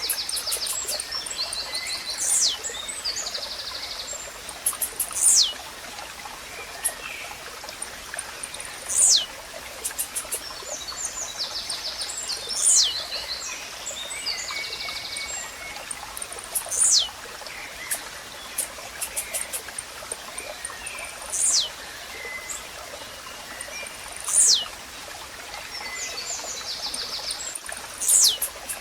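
Blue-black grassquit (tiziu) repeating its short, sharp song note that sweeps steeply downward in pitch, eight times at intervals of three to four seconds. Other small birds chirp and water trickles steadily beneath it.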